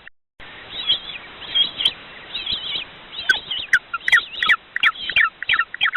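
Penguin calls: a run of short, high chirps over a faint background hiss, coming thicker and faster in the second half.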